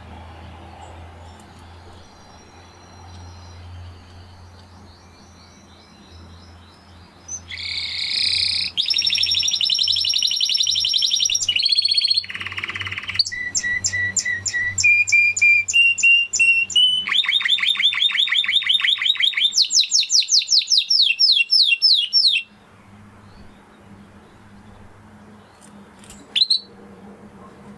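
Spanish Timbrado canary singing one long song of rapid trills, starting about seven seconds in: a buzzy rolling section, then repeated notes stepping upward in pitch, then a fast clear trill, cut off suddenly after about fifteen seconds. A single short chirp follows near the end.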